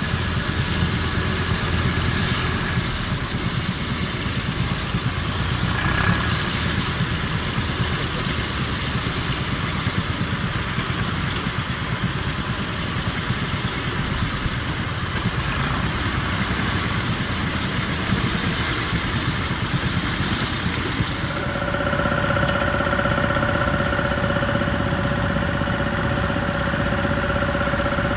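Tractor engine running steadily. About two-thirds of the way through, a steady high whine comes in and stays.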